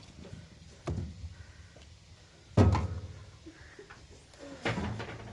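A few dull thumps and knocks, the loudest about two and a half seconds in, with a cluster of smaller knocks near the end.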